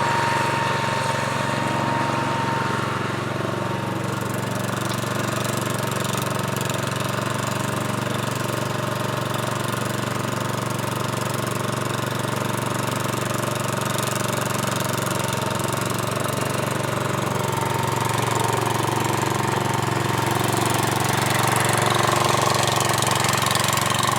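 Sears Suburban garden tractor engine running steadily at an even speed.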